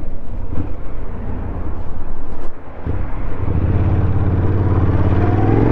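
Motor vehicle engine running over a low rumble of wind and road noise. It settles into a steady pitched note about halfway through, then rises in pitch near the end as it accelerates.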